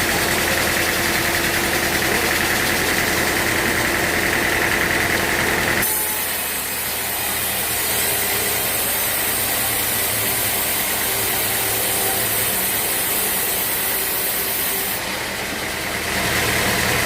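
Sawmill machinery engine running steadily. Its sound changes abruptly about six seconds in, then changes back about a second before the end.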